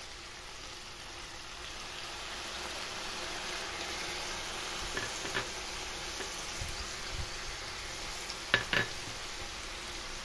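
Chicken adobo and potatoes sizzling steadily in a stainless steel pot. A few faint clicks come about halfway, and a sharp double knock near the end as a wooden spatula stirs against the pot.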